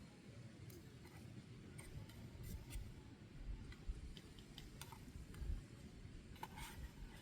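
Faint, irregular clicks and ticks over a low rumble.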